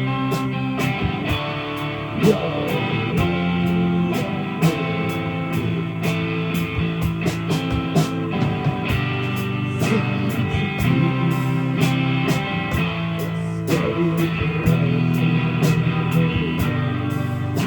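Live rock band playing: electric guitar over drums keeping a steady beat.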